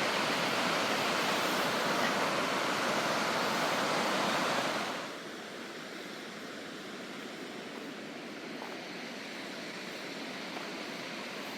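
Waterfall, a steady rush of falling water. About five seconds in it drops suddenly to a quieter, duller rush.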